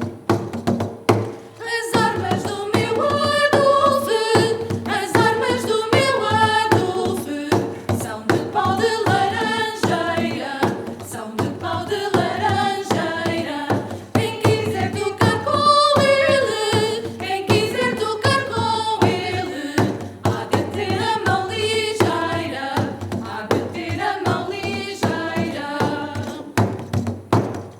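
Vocal ensemble singing in harmony over a steady rhythmic accompaniment.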